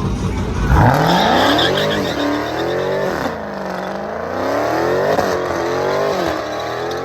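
Car engine revved hard several times, its pitch climbing sharply about a second in and then rising and falling in repeated blips.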